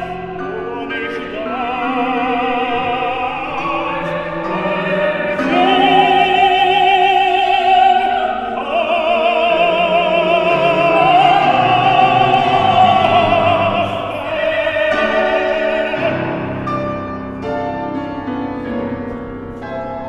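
Operatic singing: a classically trained voice holding long notes with wide vibrato, over piano accompaniment. Near the end the voice drops back and the piano plays a run of repeated chords.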